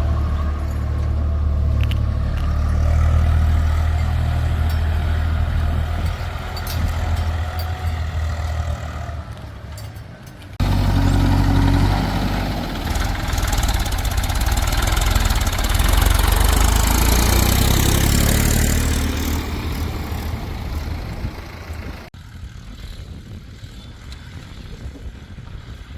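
Heavy diesel machinery engines running at work, the sound changing abruptly about ten seconds in and again about twenty-two seconds in, quieter after the second change.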